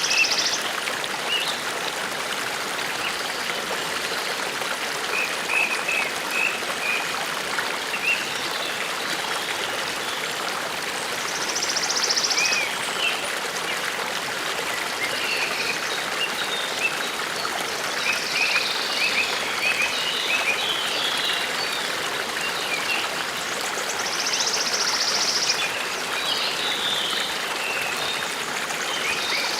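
Forest stream babbling and trickling steadily, with songbirds calling over it: scattered short chirps and a high buzzy trill that comes back about every twelve seconds.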